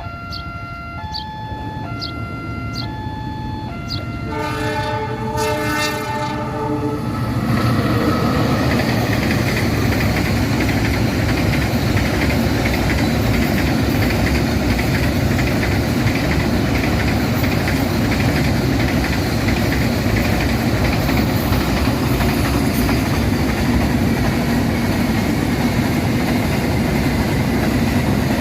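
A two-note warning tone repeating about once a second, then a train horn sounding for about two and a half seconds, then an Indonesian (KAI) train passing close by, its rumble and wheel clatter loud and steady for the rest.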